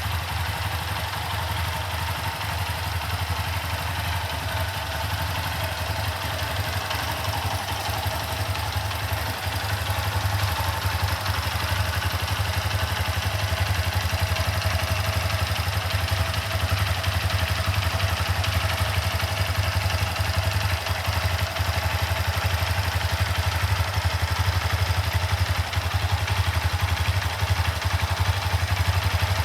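Honda FTR223's 223 cc air-cooled single-cylinder engine idling steadily, a little louder from about ten seconds in.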